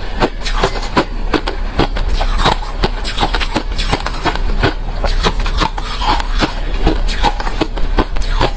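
A person chewing hard refrozen crushed ice: dense, irregular crunches and cracks, several a second.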